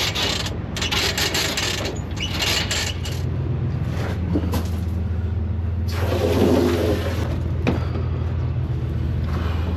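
An engine runs steadily, its note growing stronger about three seconds in, while water rushes from a hose into a portable toilet's tank in several bursts.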